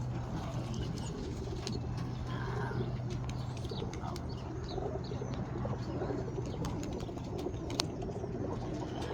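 Roller pigeons cooing softly, with scattered light clicks and a steady low hum underneath.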